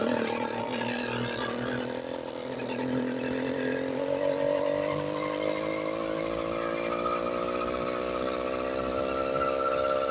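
Motorized bicycle's small engine running under way, its pitch climbing steadily as it speeds up.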